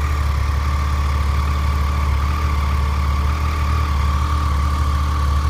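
Triumph Street Triple 675's inline three-cylinder engine idling steadily through its standard exhaust.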